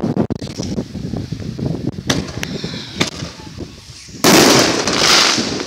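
Fireworks: two faint pops, then about four seconds in a sudden loud firework burst that crackles and hisses for about a second and a half. Wind rumbles on the microphone throughout.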